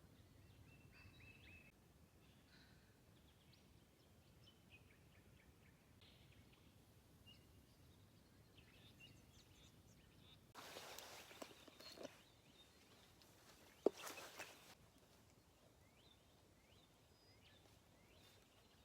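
Faint, scattered bird chirps over very quiet natural background noise. Two short bursts of noise break in about ten and fourteen seconds in, the second with a sharp click.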